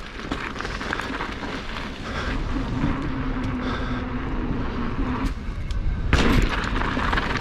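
A mountain bike run with wind rushing on the microphone and tyres rolling on dirt, growing louder as the bike gathers speed. There is a sudden loud burst about six seconds in, as the bike goes off the drop and lands.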